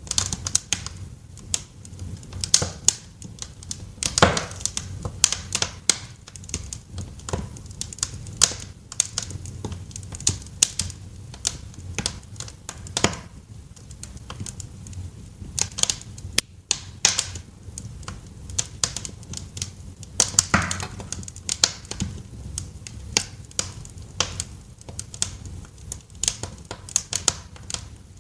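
Wood fire crackling in a fireplace: irregular sharp snaps and pops, some louder than others, over a steady low rumble.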